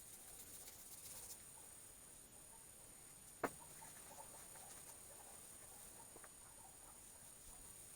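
Near silence: a faint steady high-pitched hiss, with one sharp click about three and a half seconds in.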